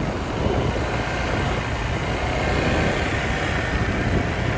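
Motorbike engines and road traffic: a steady drone of engine and road noise.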